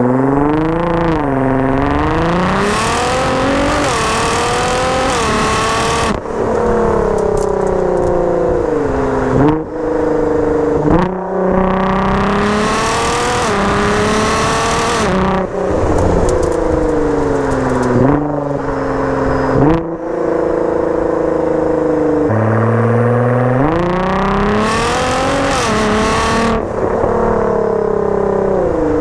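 Twin-turbo V6 of a tuned Nissan GT-R (about 750 whp, bolt-ons and full exhaust) accelerating hard through the gears. The engine note climbs, drops sharply at each upshift and climbs again, over several pulls.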